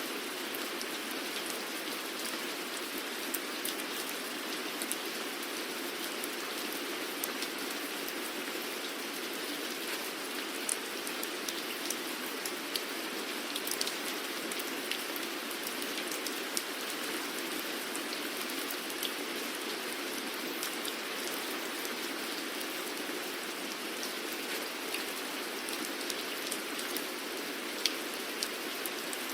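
Steady rainfall, an even hiss of rain with many individual drops ticking sharply on a surface.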